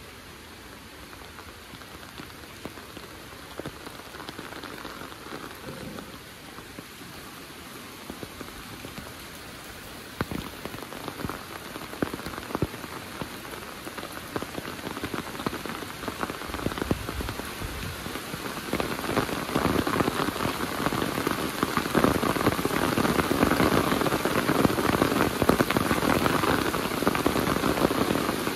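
Rain falling: a dense, even hiss thick with separate close drop hits. It grows louder about ten seconds in and again around two thirds of the way through, ending much louder than it began.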